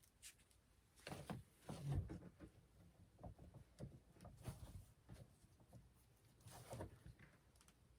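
Faint rustling and light knocks of hands working cord and straps through kayak outfitting, with one dull thump about two seconds in.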